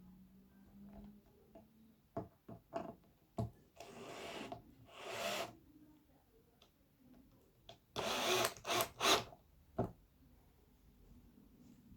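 Handling noises from work inside a wooden speaker cabinet: a few sharp knocks, then two longer bouts of rustling and scraping, the second with several quick knocks in it.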